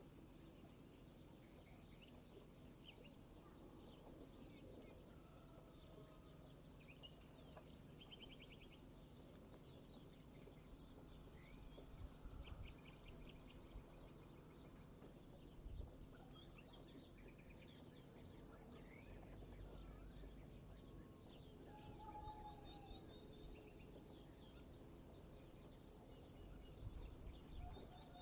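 Birds chirping and calling faintly, many short calls with a quick trill now and then, over a low rumble that swells a few times.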